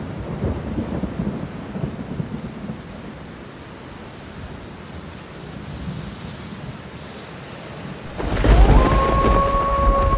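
Rumbling, rain-like noise with a thunder-like low roll, part of a synthesizer jam. About eight seconds in it swells into a much louder low rumble, and two synth tones sweep up and hold.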